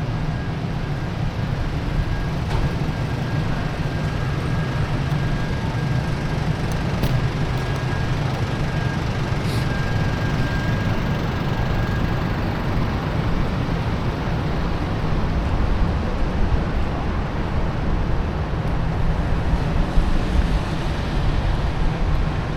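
Steady traffic rumble on a rainy city street, with a constant hiss over it. A faint thin tone holds through roughly the first half.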